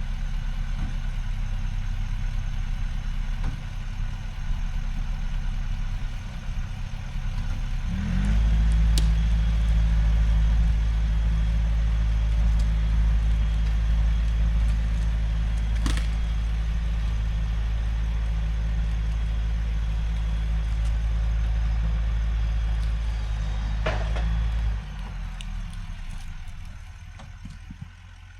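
Truck engine idling, then about eight seconds in it picks up and runs harder and steadier under load for some fifteen seconds, with a few sharp clicks, before dropping back and fading near the end.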